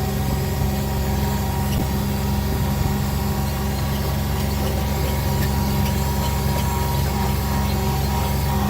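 Motor vehicle engine running steadily, a low, even hum with no change in pitch.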